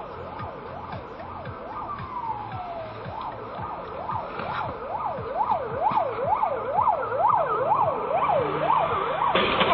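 Emergency vehicle siren on a rapid yelp, its pitch sweeping up and down about two or three times a second, with one slower falling wail partway through. It grows louder as it draws near.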